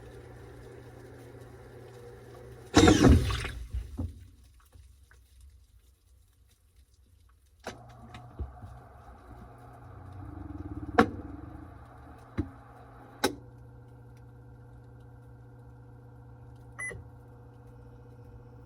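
Washing machine running with a steady motor hum. A loud rushing swish comes about three seconds in, the hum stops for a few seconds, then starts again with a few sharp clicks.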